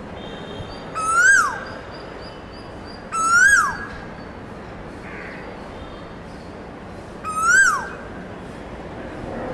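A bird's call, repeated three times: each a short, loud whistle that rises briefly and then drops sharply, the second about two seconds after the first and the third some four seconds later.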